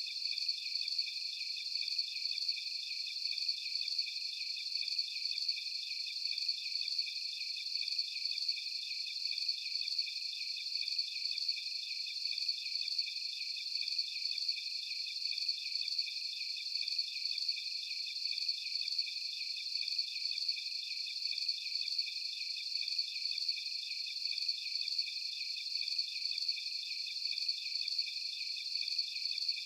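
Steady chorus of crickets chirping, high-pitched and pulsing evenly without a break.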